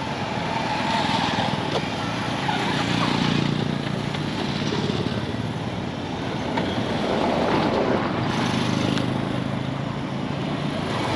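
Road traffic: vehicle engines running past with a steady hum that swells and fades, louder twice as vehicles go by.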